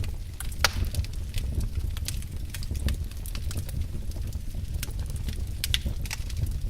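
Wood fire in a fireplace crackling, with irregular sharp pops and snaps over a steady low rumble of the flames. One loud pop comes just under a second in and another near the end.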